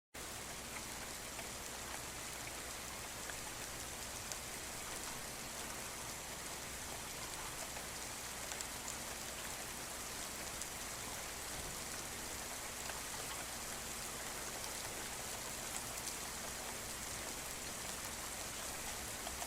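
Steady rain falling, with a dense patter of individual drops ticking through it.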